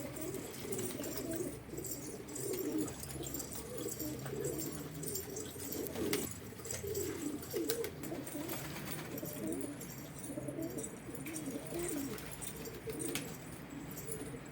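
Several domestic pigeons cooing, their low warbling calls overlapping without a break.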